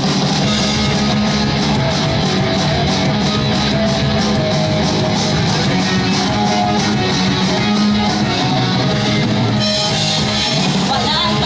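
Pop-punk band playing live: distorted electric guitars, bass and a steadily beating drum kit, loud and continuous.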